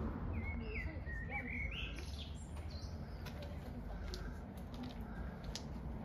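Small birds chirping, with quick rising and falling calls in the first couple of seconds and scattered short ticks after, over a steady low rumble.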